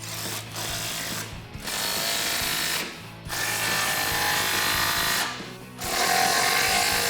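A 3/8-inch power impact wrench on a 15 mm socket running in four bursts of a second or two each with short pauses between, tightening the nuts of the exhaust clamps.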